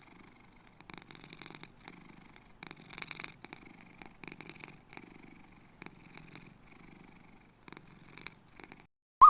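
A cat purring, a soft rhythmic rumble that swells and fades with each breath.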